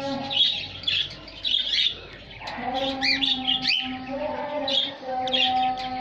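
Cockatiels chirping in short repeated calls, with a few quick rising whistles near the middle, over sustained held notes of background music that change pitch twice.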